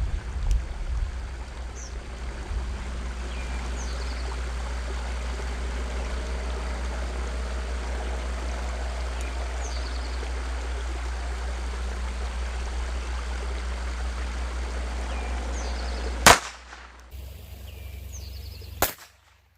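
Two shots from a Colt Junior .22 Short pocket pistol near the end, about two and a half seconds apart, the first the louder. Before them, a steady low rumble with faint bird chirps.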